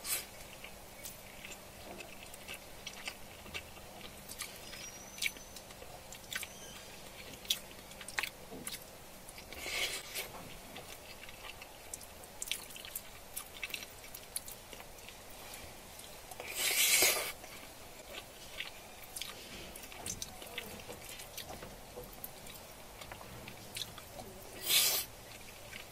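Close-up chewing and mouth sounds of a person eating, with many small clicks and three louder, breathy bursts of about a second each, spread through the stretch.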